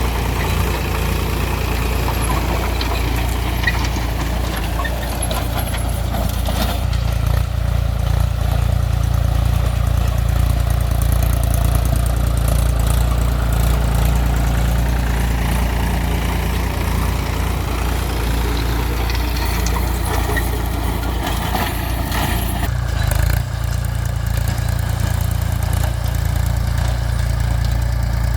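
Mahindra 275 DI TU tractor's diesel engine running steadily, with a deep, even note throughout and a brief dip about 23 seconds in.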